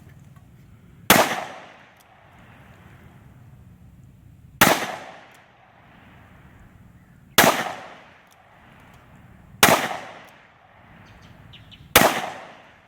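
Five gunshots fired one at a time, two to three seconds apart, each a sharp crack followed by about a second of echo.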